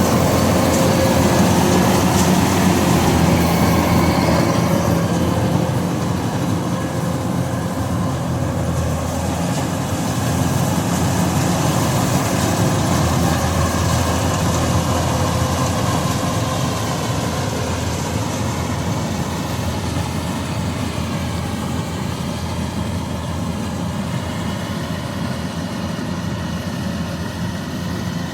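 Combine harvester running steadily, a continuous engine and machinery drone that eases gradually quieter over the stretch.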